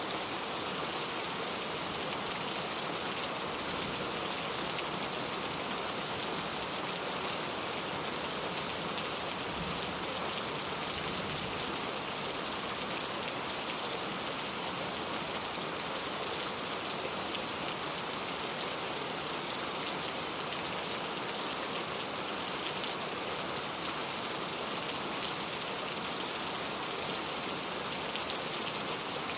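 Steady rain falling, an even hiss of many drops with fine individual drop ticks, unchanging in level.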